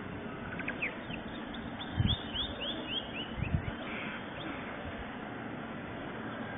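A small bird chirping a quick run of short calls over a steady background noise. Two low thumps come about two seconds and three and a half seconds in.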